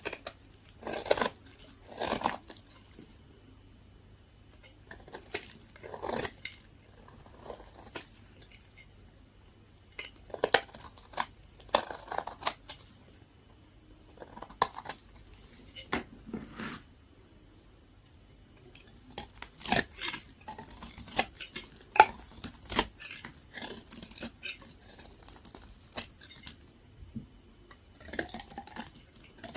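Very dry bar soap being cut, giving crisp crackling and crunching strokes in irregular bouts with short pauses between them.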